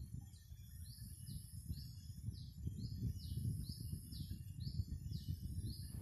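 A forest bird repeating a short, sharp chirp about twice a second, over a low rumbling noise.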